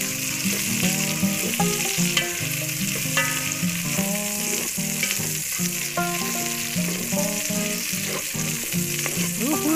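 Sliced tomatoes, shallots, garlic and chillies sizzling in hot oil in an aluminium pot while a plastic spatula stirs them, over a tune of held notes that step up and down.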